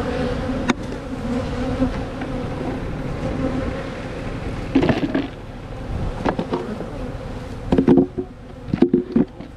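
Honeybees buzzing from an opened hive, a steady hum, with several short knocks and clatters from handling the hive boxes, loudest about eight and nine seconds in.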